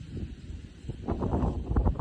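Wind buffeting the microphone: an uneven low rumble that gusts harder about a second in.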